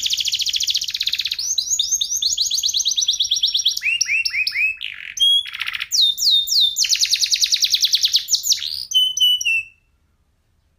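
F1SF canary singing: rapid trills and rolling runs of quick repeated high notes, switching phrase every second or so. The song cuts off abruptly about a second before the end.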